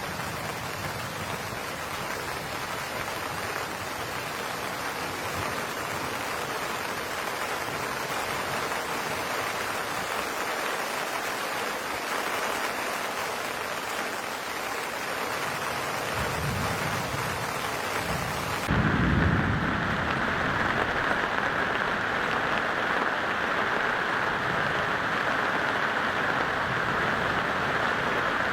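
Steady rushing noise of rain. It changes abruptly about two-thirds of the way through, turning duller and louder, with a couple of brief low rumbles.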